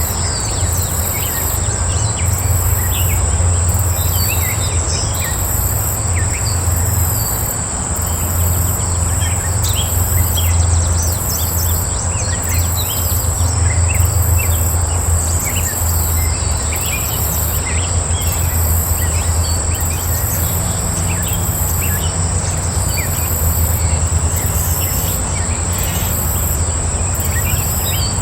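Small birds chirping in short scattered calls over a steady high insect drone, with a higher insect buzz pulsing about every second and a half. A steady low rumble runs underneath.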